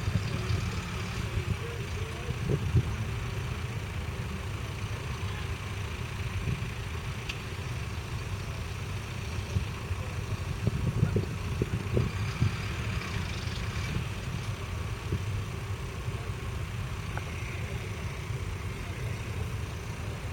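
A Massey Ferguson 5S.145's 4.4-litre four-cylinder diesel engine running steadily, with a few short knocks about halfway through.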